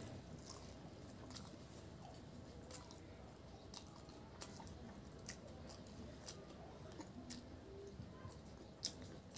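Faint close-up eating sounds of a mouthful of pork curry and rice: soft chewing with scattered short wet clicks and smacks, roughly one a second, a little louder near the end.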